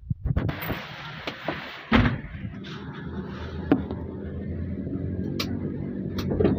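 A car engine running steadily, with a loud thump about two seconds in and scattered clicks and knocks.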